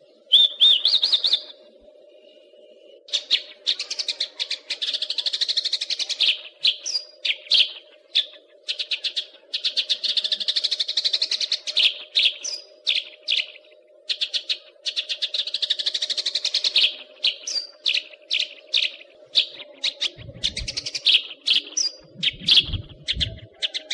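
Caged songbird singing long, fast phrases of high chirps and trills, pausing briefly between bursts, over a steady low hum. A few low thumps come near the end.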